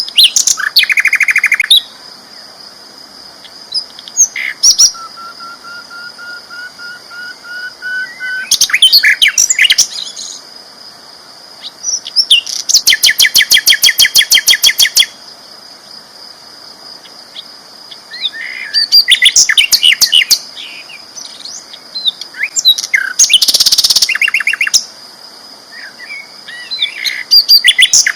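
Sikatan londo flycatcher singing loudly in repeated bouts a few seconds apart: fast chattering trills and rapid runs of evenly repeated notes, plus one slow rising series of notes. A steady high-pitched whine runs underneath.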